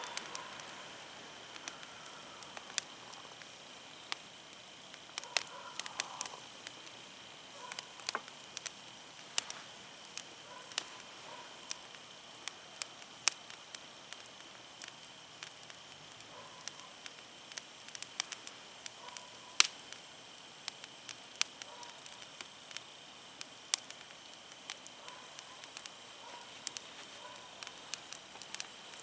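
Firewood burning in an open fire, crackling with sharp, irregular pops, a few of them much louder than the rest.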